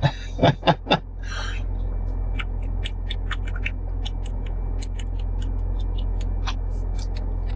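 A car engine idling as a steady low rumble while it warms up, with a run of small sharp clicks and crackles from things being handled in the cabin.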